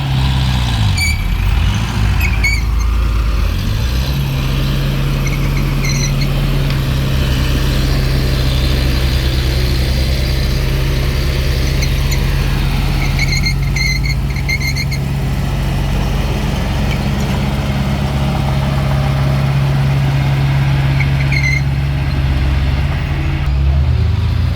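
Diesel engine of a mini bulldozer running steadily, its pitch sagging and picking back up about a second in and again near the end. Short high squeals come now and then, with a quick cluster of them about halfway through.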